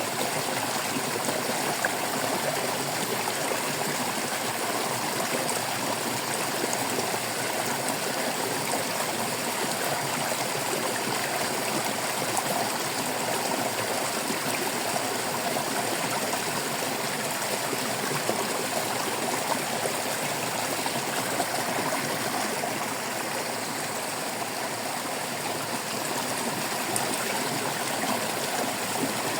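Shallow stream of water flowing and babbling over rocks, a steady trickling and gurgling rush that keeps an even level throughout.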